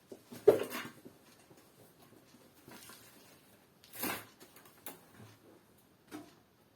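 Scattered handling noises at a workbench: a sharp knock about half a second in, a short rustle around four seconds in, and a couple of light clicks.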